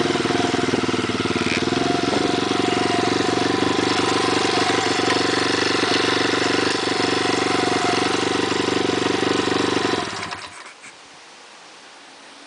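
A 160cc pit bike's single-cylinder four-stroke engine running steadily at an even speed, then shut off about ten seconds in.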